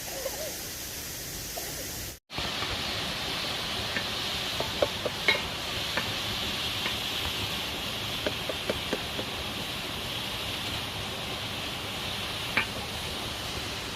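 Food sizzling in a cooking pot while being stirred, with the utensil clicking against the pot now and then. The sound cuts out completely for a moment about two seconds in.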